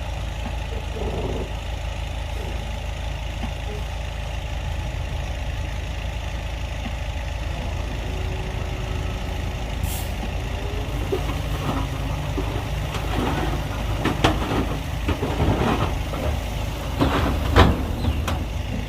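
Heavy diesel earthmoving machinery running steadily at low revs. There is a brief hiss about halfway through, then a run of knocks and clanks in the last few seconds, the loudest near the end.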